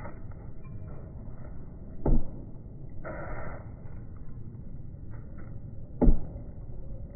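Low steady rumble of a car cabin on the move, broken by two sharp thumps about four seconds apart, which are the loudest sounds.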